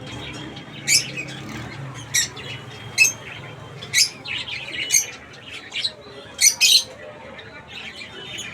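Many caged birds calling: short, sharp chirps and squawks about once a second, with two loud calls close together near the end, over a steady chatter of other birds.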